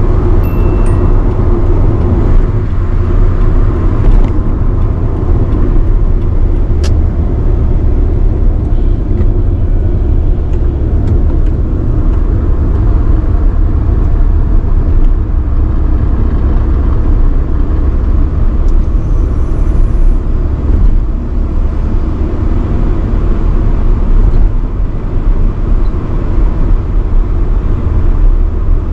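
1985 Nissan Sunny B12 cruising on the expressway: steady engine and road noise with a deep rumble, and a brief high tone right at the start.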